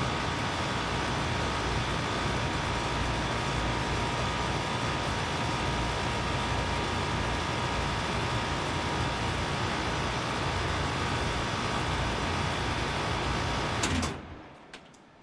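2004 Lennox Merit 10ACC 3.5-ton air conditioner condenser running steadily, its compressor sounding a little sick, which the owner suspects may be overcharged. About fourteen seconds in there is a click as the unit shuts off, and the noise dies away within about a second.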